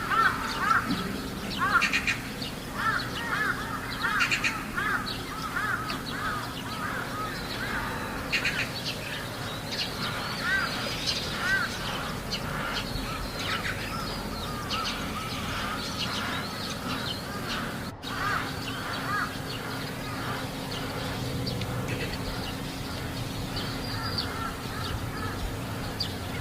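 Many crows cawing over and over, several birds at once and overlapping, loudest in the first few seconds and then carrying on more softly. A steady low hum lies underneath.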